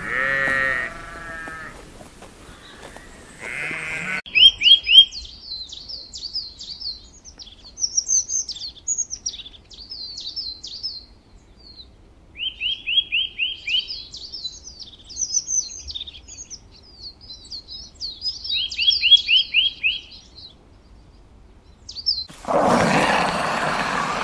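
A sheep bleats twice in the first few seconds. Small songbirds then chirp and twitter for most of the time, with three quick runs of rapid descending notes. Near the end a loud, rough sound without clear pitch starts.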